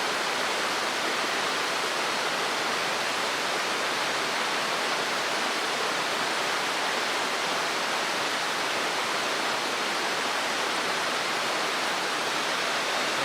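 Mountain stream water rushing steadily, an even hiss that does not change.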